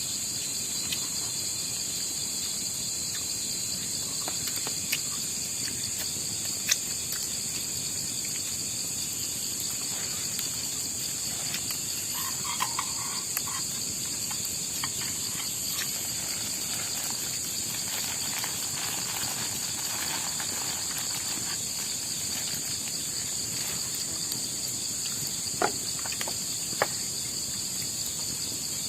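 Steady high-pitched chorus of night insects such as crickets, with scattered sharp clicks, the loudest about seven seconds in and twice near the end.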